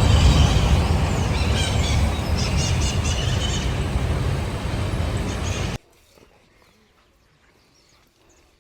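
Birds chirping in short bursts over a loud, steady low rumbling noise. The whole sound cuts off suddenly near the end, leaving only faint, scattered sound.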